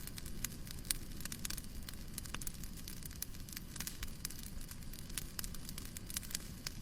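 Wood fire crackling: irregular sharp pops and snaps, several a second, over a steady low rumbling noise.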